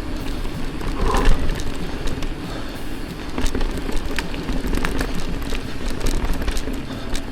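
Mountain bike being ridden on a dirt trail, heard from an action camera's built-in mic: wind rumbling on the microphone over the noise of the tyres rolling on the ground. Scattered clicks and rattles from the bike and the trail surface, with a louder rush about a second in.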